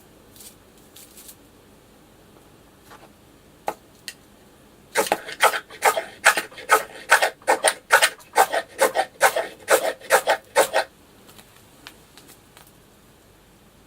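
A quick run of rubbing or scraping strokes, about four a second, lasting about six seconds, after a few light clicks.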